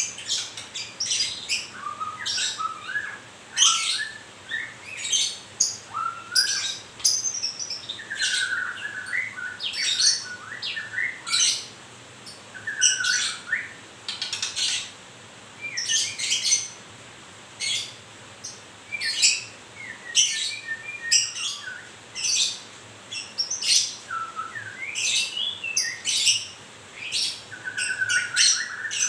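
A captive white-rumped shama (murai batu), in molt, singing continuously: varied whistled phrases with rising and falling glides, mixed with quick chirps.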